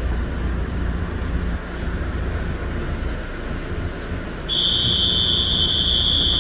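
Metro-North commuter train rolling slowly with a steady low rumble. About four and a half seconds in, a loud, steady, high-pitched electronic beep starts and holds for about two seconds.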